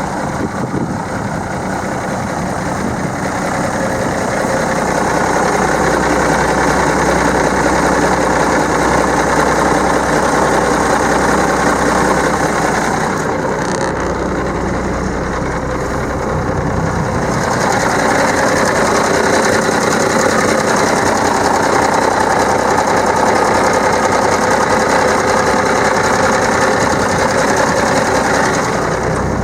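International 9000-series truck's diesel engine running at idle, growing a little louder over the first few seconds, easing off around the middle and picking up again.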